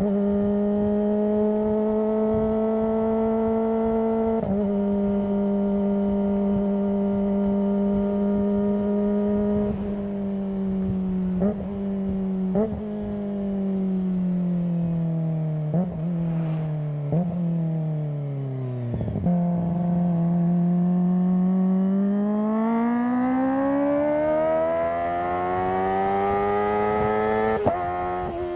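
Kawasaki ZX25R's 250 cc inline-four engine and exhaust under way: a steady cruise, then slowing with several downshifts, each marked by a short rev blip, then accelerating with the pitch climbing, and a gear change near the end.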